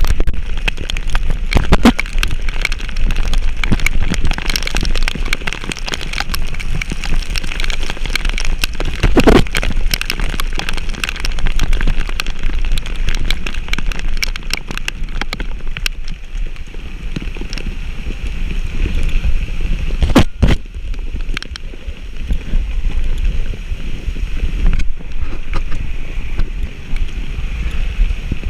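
Vehicle driving on a wet, rough mountain road: a steady low rumble with wind buffeting the microphone and scattered knocks and clatters.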